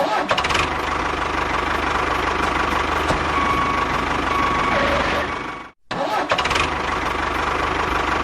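An engine running steadily with a low even pulse, which breaks off abruptly for a split second about six seconds in and then carries on.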